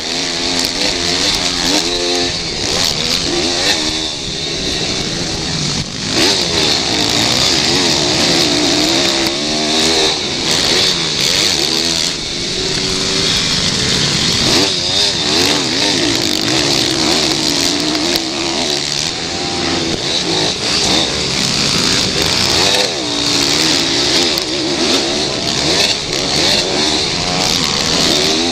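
Several pit bike engines racing, revving up and down repeatedly as the riders accelerate, shift and back off.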